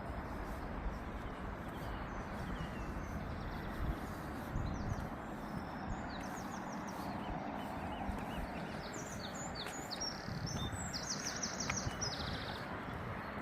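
Outdoor ambience of steady wind rumble on the microphone with small birds chirping. The chirps thicken into a quick run of calls a few seconds before the end.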